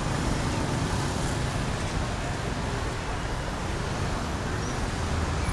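Steady city road traffic: a continuous low rumble and hiss, with no single vehicle standing out.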